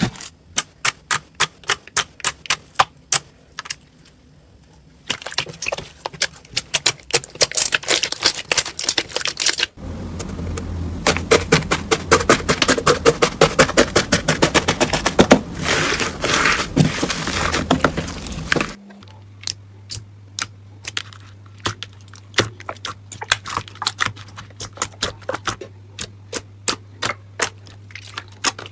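Slime being squeezed and poked by hand, making rapid sharp clicks and pops. The texture changes abruptly about five, ten and nineteen seconds in, as one slime clip gives way to the next. The last part has a steady low hum under the clicks.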